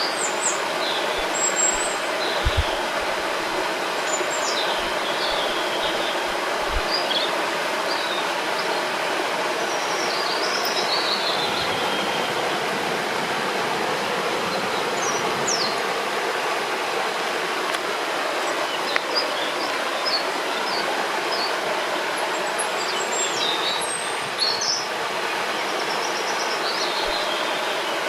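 Steady rush of a flowing river, with small birds chirping and whistling at intervals above it.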